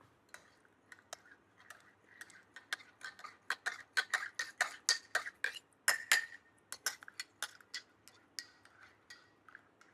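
Kitchenware clinking and tapping: a quick, irregular run of light clinks, with a short ring after many of them, as dishes, cups and cutlery are handled.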